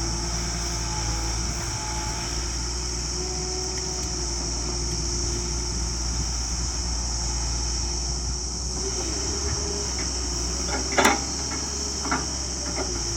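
Tractor diesel engine running steadily, with a faint tone that wavers in pitch and a steady high-pitched hiss over it. A sharp knock comes near the end, followed a second later by a smaller one.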